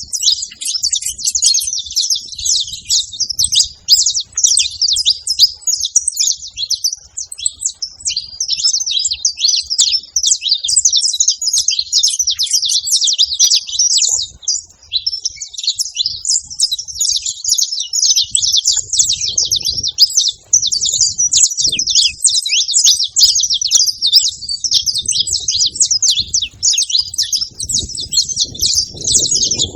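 Saffron finches chirping and twittering nonstop, many short high calls overlapping in a dense, noisy chatter.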